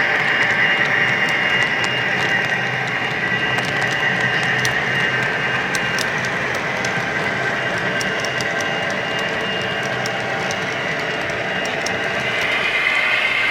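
HO scale model train running along the layout track: a steady whine with many quick, irregular clicks of the wheels over the rail joints.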